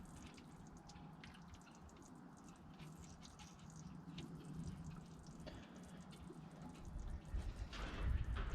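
Faint irregular drips and small ticks, with a low rumble that grows louder near the end: hydraulic oil dripping from disconnected lines into a catch bucket.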